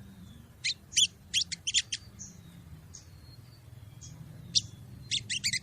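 Female sogon bird calling: a loose group of sharp, high chirps about a second in, then faint thin whistles, then a quicker run of chirps starting near the end. It is a lure call, the call a female gives to attract a male.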